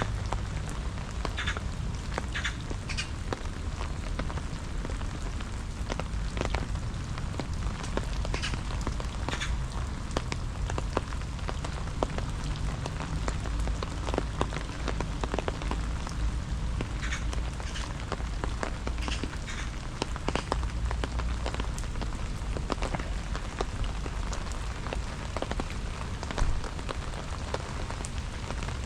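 Rain falling steadily, with many sharp drop taps close to the microphone over an even hiss and a steady low rumble underneath; one louder tap near the end.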